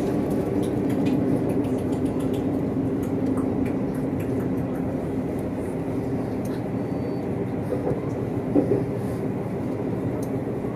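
Running noise inside a moving Stadler FLIRT diesel multiple unit: a steady rumble with a low hum, light clicks from the rails, and one louder knock near the end.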